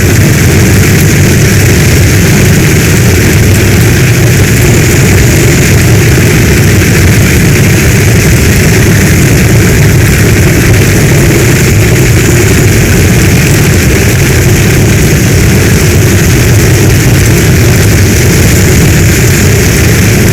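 Heavy storm rain falling steadily: a dense, even hiss over a low rumble, with no breaks or single claps.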